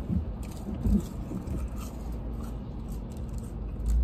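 A person chewing and eating fried food close to the microphone, with faint wet mouth clicks, over a steady low rumble of the car cabin. Two soft thumps stand out, one about a second in and one near the end.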